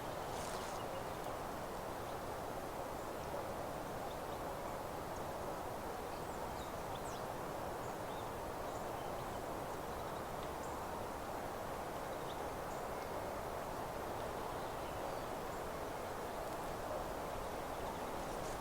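Meadow ambience: a steady rushing background hiss with faint, scattered high-pitched chirps of distant birds.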